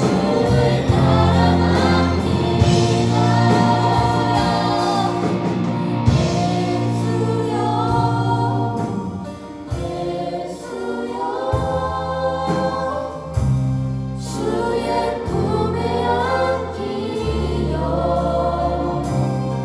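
A group of voices singing a Christian praise and worship song over band accompaniment, with held bass notes and a steady drum beat.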